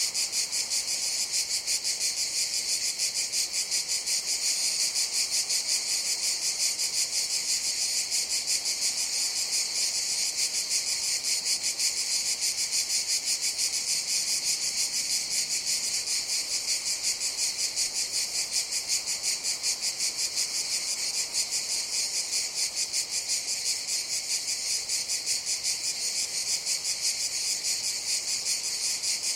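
A chorus of cicadas: a continuous high-pitched buzzing drone with a fast, even pulsing that holds steady throughout.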